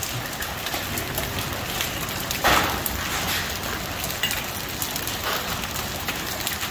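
Hail and rain pelting a car, a dense patter of hard ticks and knocks, with one louder hit about two and a half seconds in.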